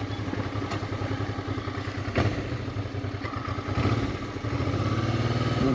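Honda Transalp 650's V-twin engine running at low revs, with a single sharp knock about two seconds in. For the last couple of seconds the engine holds a slightly louder, steadier note under light throttle.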